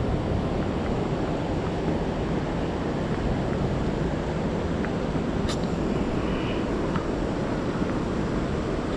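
Steady rushing background noise, with a faint click about five and a half seconds in.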